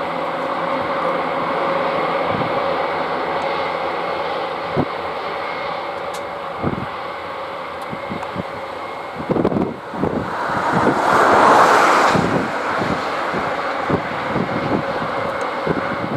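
Airbus A400M Atlas's four Europrop TP400 turboprop engines running steadily as the aircraft taxis, a constant drone with a steady tone. Wind buffets the microphone in the middle, with a loud gust about 11 to 12 seconds in.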